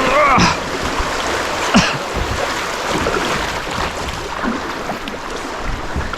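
River water rushing and splashing around a sit-on-top kayak as it runs through a shallow stretch of current, with a few sharper splashes.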